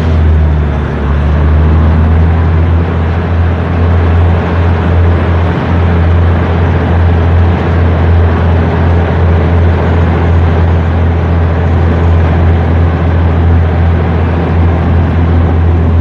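Passenger train running, a loud steady rumble with a deep low hum and no let-up.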